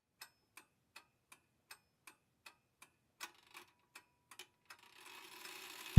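Clock-like ticking used as a track intro, a bit under three ticks a second. A hiss swells up under it in the last second.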